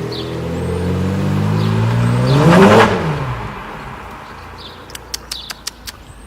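A car drives past close by. Its engine note rises as it approaches and drops as it passes, loudest about two and a half seconds in, then fades away. A quick run of sharp clicks follows near the end.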